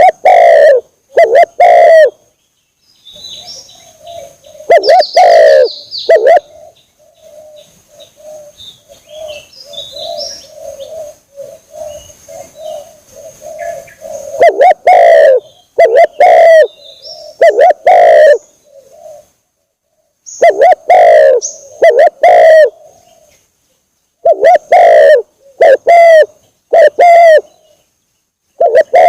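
Spotted dove cooing in repeated groups of very loud low coos, a lure call for drawing in spotted doves. Faint high chirps sound in the gaps between the coo phrases.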